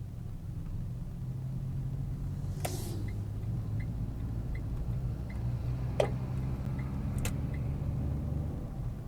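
Car engine and road noise as heard from a dashcam: a steady low rumble and hum. A faint tick repeats about every three quarters of a second through the middle, and there are a few sharp knocks, the loudest about six seconds in.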